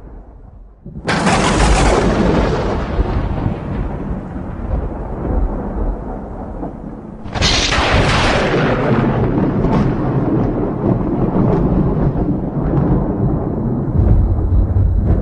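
Two thunderclaps about six seconds apart, each opening with a sudden crack and trailing off into a long rolling rumble.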